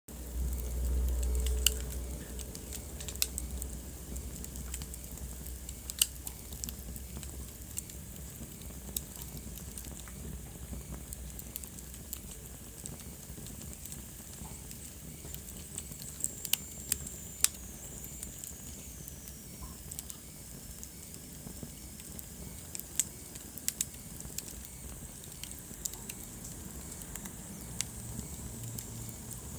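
Wood fire burning in a fireplace: a low steady rumble of flame with irregular sharp crackles and pops, the rumble louder in the first two seconds. Around the middle a faint high whistle slides down in pitch.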